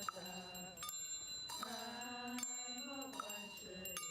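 Chanting voice held on steady pitches, with bells struck a few times and left ringing.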